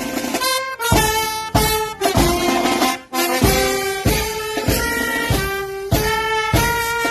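Military brass band playing a march-like tune, sustained brass notes changing pitch about every half second over a steady drum beat.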